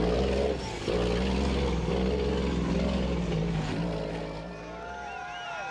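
The 370-horsepower diesel engine of a Class 8 off-road racing truck running hard at speed, a steady engine note with a brief dip about half a second in. It fades away near the end.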